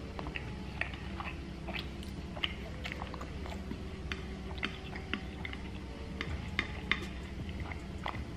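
Close-up chewing of soft pot roast and cabbage, with many small wet mouth clicks and smacks scattered irregularly through it.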